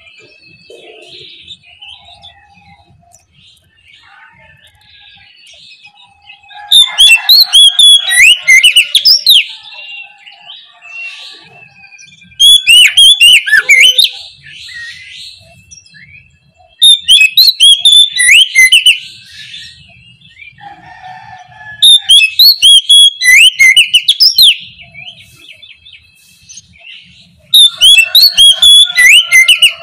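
Oriental magpie-robin (kacer) singing in loud bursts of rapid, sharply gliding whistled and scratchy notes, each burst about two seconds long and coming about every five seconds, with faint chirps in the gaps. This is the full, open 'ngeplong' song that bird keepers play to goad a silent kacer into answering.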